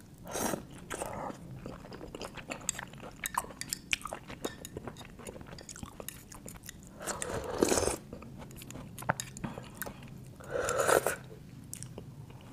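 Close-miked chewing of grilled oyster with garlic topping: many small wet clicks and smacks of the mouth, with three louder, longer mouth noises about half a second in, just before eight seconds, and around eleven seconds.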